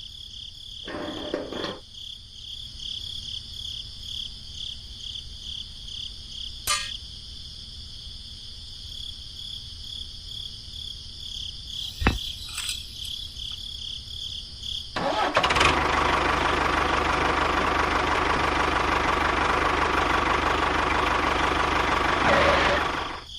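Small electric motor of a homemade model tractor switched on about halfway through, running steadily and loudly for about seven seconds, then stopping. Before it, a steady pulsing chirp like crickets, with a few single clicks.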